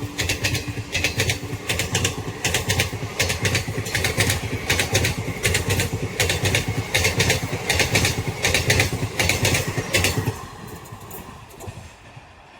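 Indian Railways train running through at speed: a steady rumble with repeated sharp clacks of the wheels passing over rail joints. The noise drops away about ten seconds in, leaving a fainter rumble.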